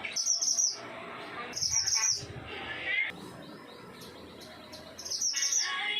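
Mountain mantenan singing in short bursts of high, quick twittering, three brief phrases a couple of seconds apart, with a short rising trill between them; the bird is only starting to sing, so its song is still short.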